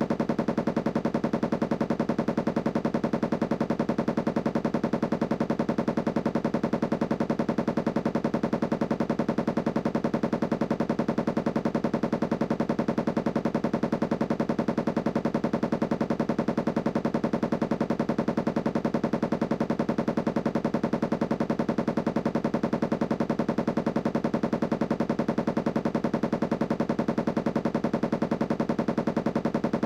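Candy washing machine running with a fast, even rattle that goes on steadily without change.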